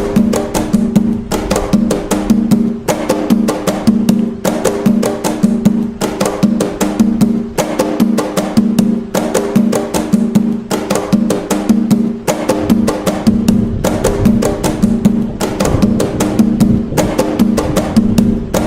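Atabaque hand drumming in the toque nagô rhythm of Umbanda: a fast, steady stream of strokes with deep pitched drum tones repeating in an even cycle.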